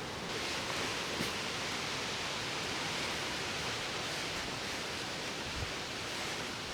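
Steady rushing outdoor noise with a single faint click about a second in.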